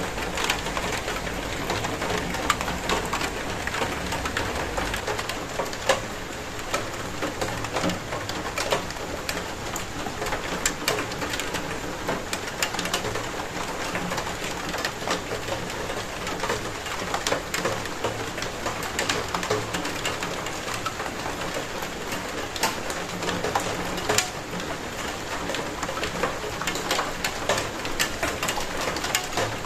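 Steady rain falling, with many individual drops striking a hard surface close by.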